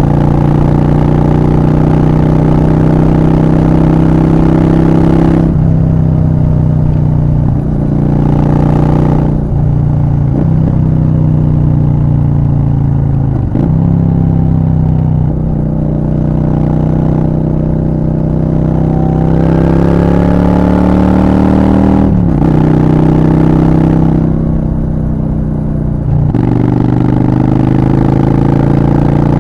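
Honda Shadow 750's V-twin engine through a Black Widow aftermarket exhaust, ridden hard: revs climb and fall with several abrupt pitch changes at gear shifts, and a long climb in revs past the middle.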